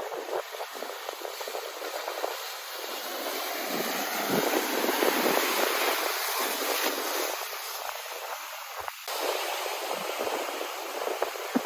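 Ocean surf from a typhoon swell, waves breaking and washing ashore in a steady rush. It swells to its loudest around the middle, then eases back.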